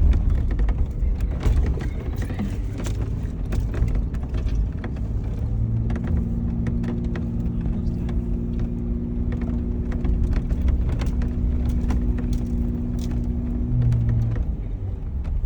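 Off-road vehicle driving slowly over a rocky dirt road: a low engine and tyre rumble with frequent knocks and rattles as it jolts over rocks. A steady hum joins in about six seconds in and stops near the end.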